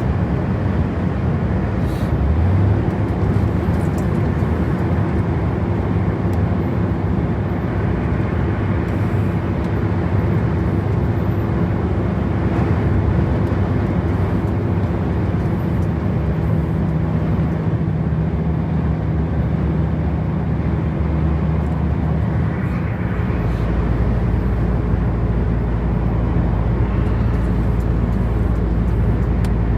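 Heavily loaded truck driving: steady engine drone with road and tyre noise. The engine pitch rises briefly about two seconds in, and the low engine tone changes about two-thirds of the way through.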